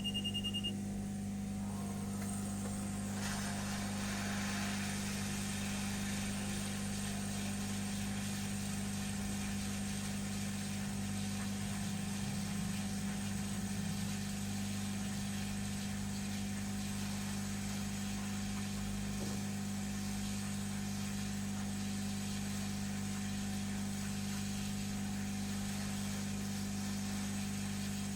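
Hot air rework station's blower running steadily with a low hum and a rushing hiss of air while desoldering a chip. A short electronic beep sounds right at the start.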